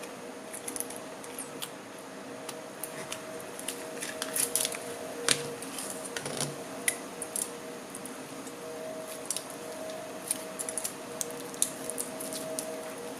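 Soft homemade no-glue slime being poked and squished by hand, giving irregular sticky clicks and small pops, under a steady low hum.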